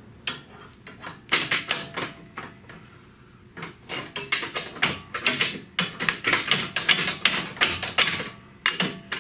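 A rapid, irregular run of sharp knocks and clatter from hand-tool work on the van's underbody: a short flurry about a second in, then a longer busy stretch from about three and a half seconds until near the end.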